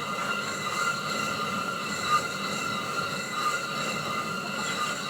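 Small village rice mill running: a steady high-pitched machine whine over an even grinding noise.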